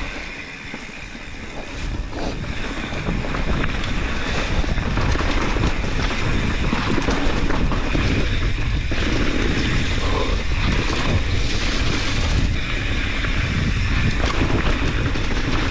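Wind buffeting the microphone over the rolling noise of mountain bike tyres on a wet trail, with the bike's rattles and clicks, growing louder over the first few seconds and then holding steady.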